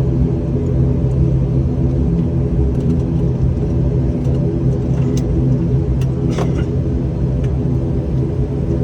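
Steady low drone of an airliner's engines heard inside the cabin, with a few light clicks and knocks about five to six and a half seconds in.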